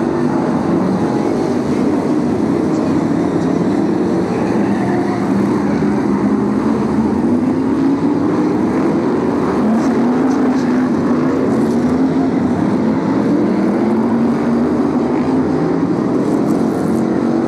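Several BriSCA F1 stock cars' V8 engines racing together round the oval, their engine notes rising and falling as the cars accelerate and back off.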